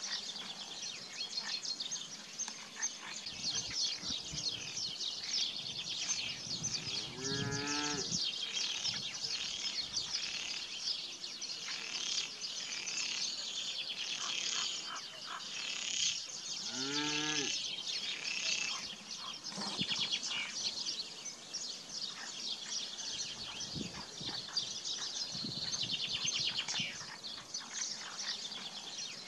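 Dense chorus of small birds chirping throughout, with a sheep bleating twice, about a quarter of the way in and again just past halfway, each call about a second long.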